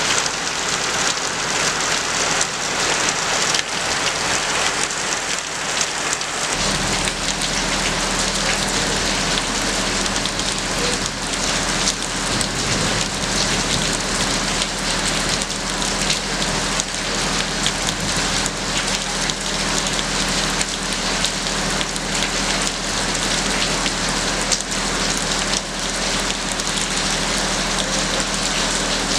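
Steady heavy rain falling, a dense hiss full of fine drop ticks. About six seconds in, a low steady hum joins it.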